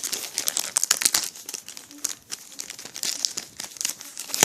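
Yu-Gi-Oh! booster pack wrapper crinkling in rapid, irregular crackles as it is worked and torn open by hand, with a louder burst near the end.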